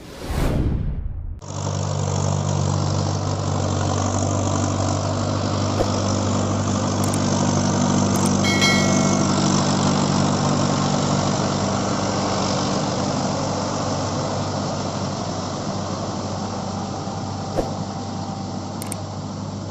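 Mahindra Arjun Ultra 555 DI tractor's diesel engine running at a steady speed, a low even drone that comes in after a brief swoosh about a second and a half in.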